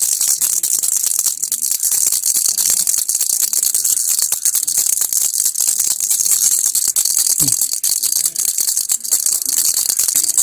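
A baby's toy rattle (kilukki) shaken continuously, its beads making a steady, dense, high-pitched rattle.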